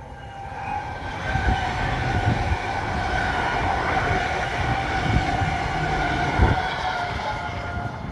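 Electric passenger train running along the line, a steady two-note whine over a rumble that swells after the start and eases off near the end. Occasional low thumps of wind on the microphone.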